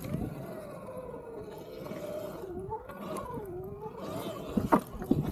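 Electric dirt bike's motor whining, its pitch falling and rising with the throttle and speed, with a couple of sharp knocks near the end.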